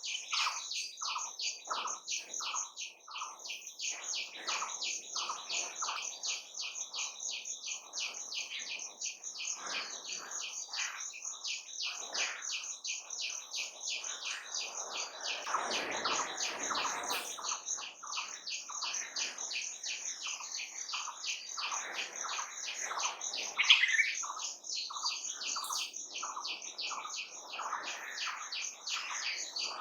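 Birds chirping and calling in a dense outdoor chorus, with a fast, even, high-pitched chirring throughout and lower calls repeated underneath. One louder call stands out near the end.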